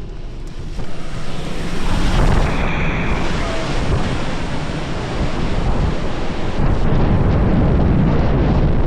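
Hurricane wind blowing hard and buffeting the microphone in a dense roar, gusting louder about a second in and again near the end.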